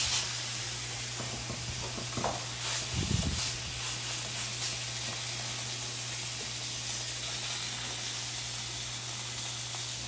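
Bone-in pork chops sizzling steadily on a hot ridged grill pan, with green beans frying in oil in a skillet beside them. A brief cluster of knocks about three seconds in, as the tongs work the chops on the pan.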